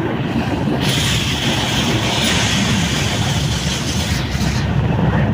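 Passenger train running, heard from aboard: a steady rumble of wheels on the track, with a brighter hiss coming in about a second in and fading near the end.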